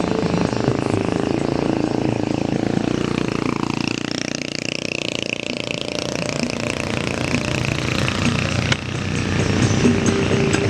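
Vehicle engine running under load on a steep uphill climb, easing off a little midway and then building again.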